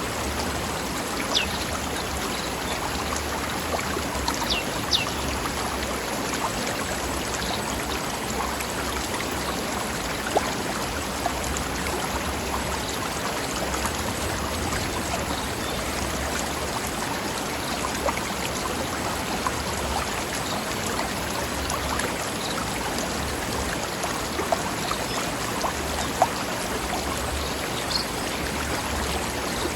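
Forest stream rushing steadily over rocks, with a few brief louder splashes and high plinks here and there.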